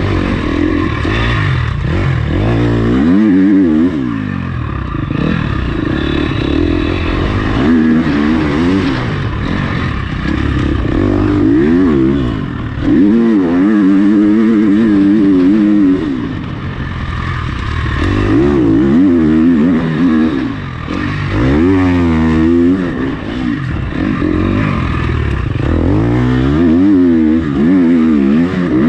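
Motocross bike engine being ridden hard, its pitch rising and falling again and again as the throttle is opened and shut through gears and corners.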